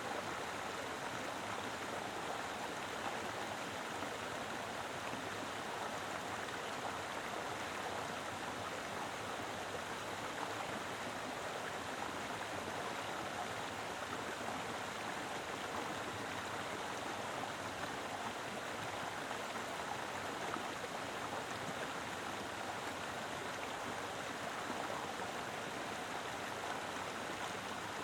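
Mountain river flowing steadily, a full, even rush of water.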